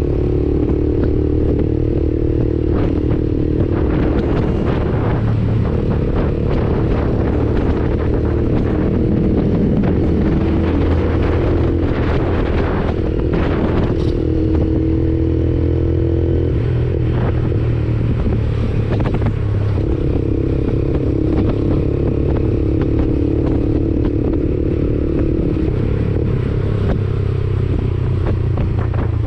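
Lexmoto Assault 125 single-cylinder motorcycle engine running through a Black Widow aftermarket exhaust while being ridden, its note holding fairly steady and shifting a little in pitch. A scatter of short clicks and knocks comes in the middle.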